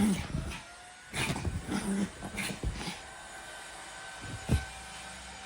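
Maltese dog dashing about in zoomies: quick patters and scrabbles with short grunting play noises in two flurries, then a single low thump about four and a half seconds in.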